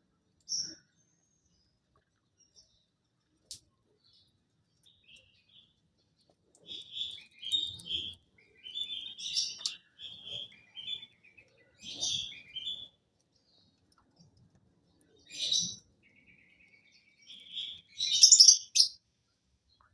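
Lovebird chirping in bouts of short, high calls: a single chirp at the start, a run of chattering after a quiet spell, and the loudest burst of calls near the end.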